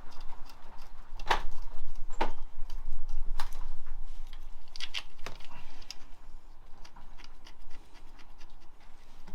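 Hand tools and metal parts clinking and scraping during engine work, with several sharp, irregular clicks and knocks and many lighter ticks.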